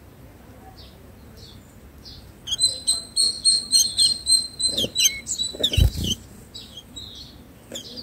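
Small birds at a nest chirping: faint scattered cheeps, then a quick run of high, thin chirps at about four a second, with a couple of low bumps or rustles near the middle.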